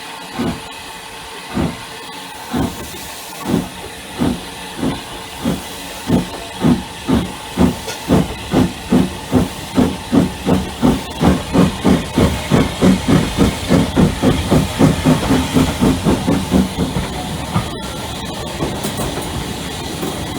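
Hunslet 0-6-0 saddle-tank steam locomotive pulling away. Its exhaust beats start slow, about one a second, and quicken to several a second as it gains speed. Near the end they merge into a steady rush of steam.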